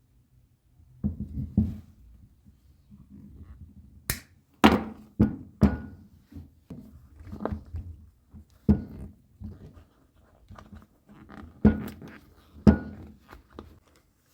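Irregular knocks and clinks of metal tools and parts being handled and set down during motorcycle fork work, a dozen or so sharp strikes, some with a brief metallic ring.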